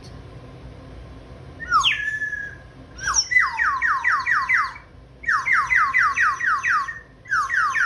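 Sparrow-shaped toy bird whistle being blown, chirping like a bird. It gives one longer falling note, then three runs of quick downward chirps, about six a second. A kitchen extractor hood runs steadily underneath.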